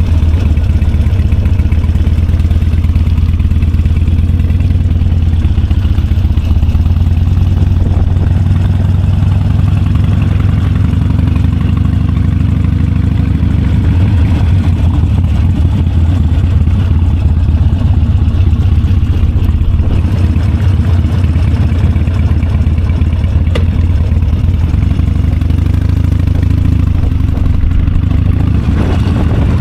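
Motorcycle engine running steadily at low revs, a constant low drone.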